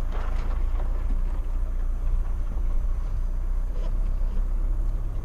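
Mitsubishi Pajero Sport driving slowly off-road: a steady low engine and drivetrain rumble.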